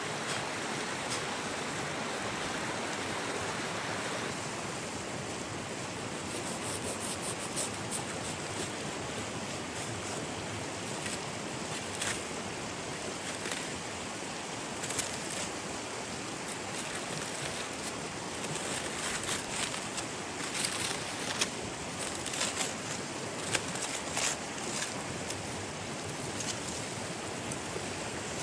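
Steady rushing of water with sharp crackles and pops scattered through it, more of them in the second half.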